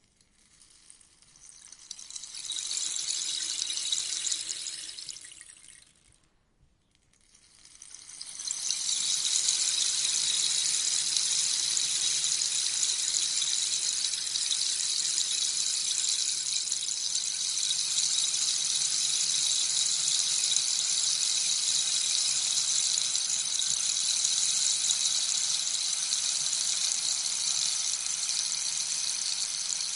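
Rainstick tilted so its beads trickle down inside it, a soft rain-like patter. A first short cascade swells and dies away, then after about a second of near silence a longer pour builds and runs on evenly.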